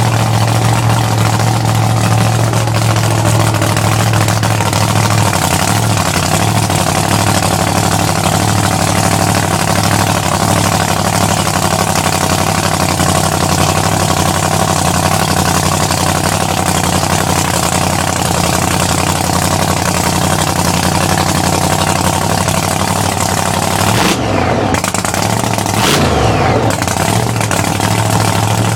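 Supercharged engine of a 1966 Chevy truck running loud and steady at a held engine speed, with a short drop and climb in revs near the end.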